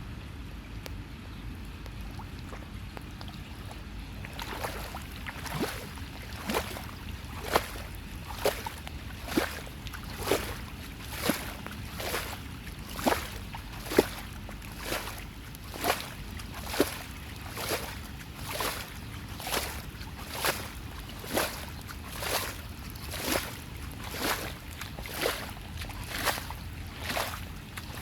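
Water being sloshed in regular strokes, about one a second, starting about four seconds in, over a steady low rush.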